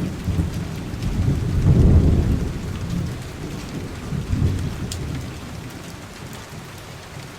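Rain falling during a thunderstorm, with low rolling rumbles of thunder that swell about two seconds in and again a little later, then fade away toward the end.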